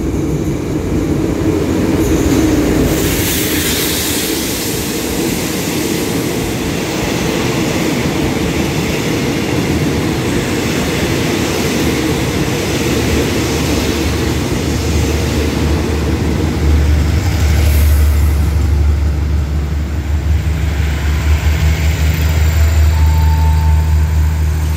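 Diesel-hauled passenger train rolling along a station platform, its wheels running on the rails with a steady rumble. A low steady drone grows in about two-thirds of the way through, with brief hissing surges near the start and again later.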